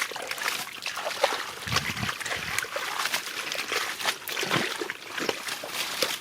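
Shallow paddy-field water splashing and trickling, with irregular small splashes as it is stirred by hand.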